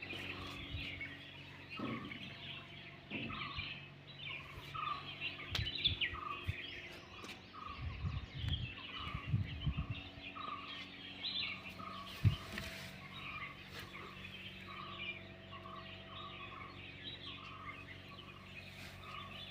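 Birds chirping, with one short note repeating evenly about three times every two seconds, and a few low thumps around the middle.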